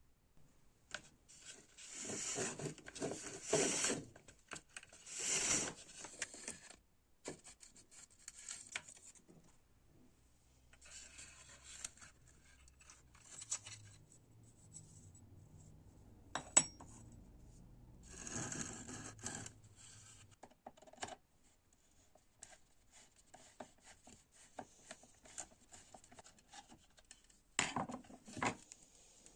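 Hand work on small parts: bursts of rubbing or scraping lasting a second or two each, scattered small clicks, and one sharp tap about sixteen seconds in.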